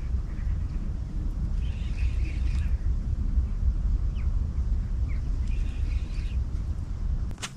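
Small birds chirping in two short bursts of calls, with a few single chirps between, over a steady low rumble. A sharp click comes just before the end.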